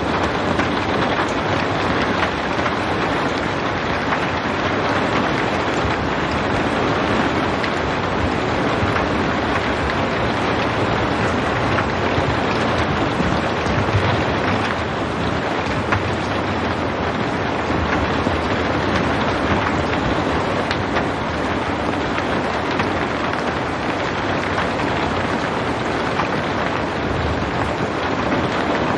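Steady rain falling, a constant even hiss with no thunder.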